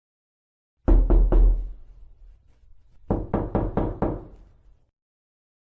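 Knocking on a door: three quick knocks, a pause of nearly two seconds, then a run of about five more knocks, each with a deep thud.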